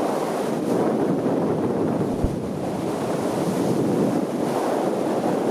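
Rushing wind of a hang glider in flight, buffeting the microphone as a steady noise, with one short knock about two seconds in.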